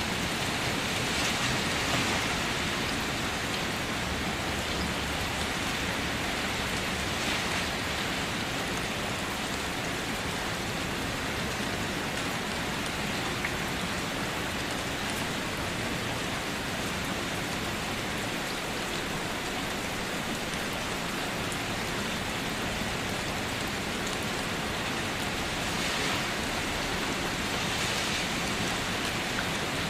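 Steady rain ambience: an even hiss of falling rain that swells slightly a few times.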